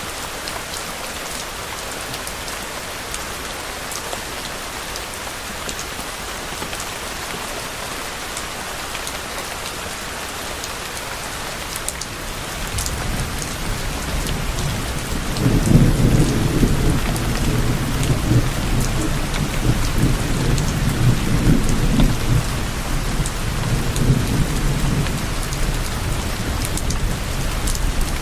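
Steady rain falling, with individual drops ticking through it. About halfway through, low thunder begins to rumble, swelling suddenly and rolling on in several surges to the end.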